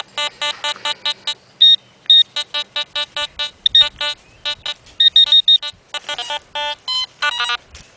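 Garrett Pro-Pointer pinpointing probe beeping in rapid runs of short pulses as it picks up a metal target in the sand, the beeps changing pitch now and then.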